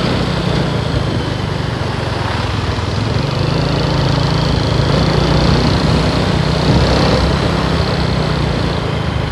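Motorcycle engine running steadily under way, with a constant rush of wind and road noise.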